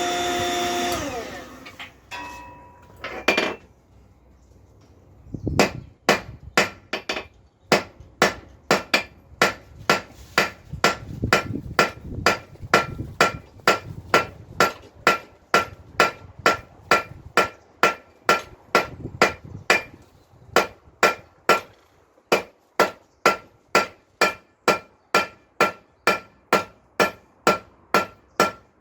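Blacksmith's hand hammer striking hot iron on an anvil, forging a nail. The blows come about two a second in a steady rhythm, each with a bright metallic ring from the anvil, after a brief steady tone in the first second and a single knock a few seconds in.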